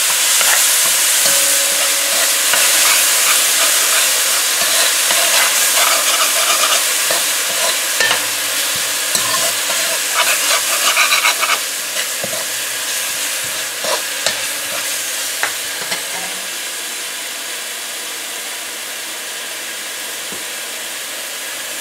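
Curry paste of ground spices and garlic sizzling in hot oil in a metal pot, frying to release the spices' aromas, while a metal slotted spoon stirs and scrapes against the pot. The scraping clicks come thickest about ten seconds in, then thin out, leaving the sizzle a little quieter near the end.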